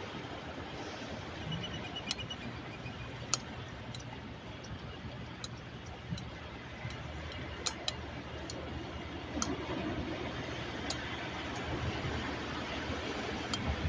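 Steady wash of sea surf, with a dozen or so sharp clicks scattered irregularly through it.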